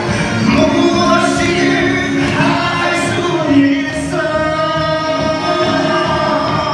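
A small group singing a song together over a backing track played from a mobile phone.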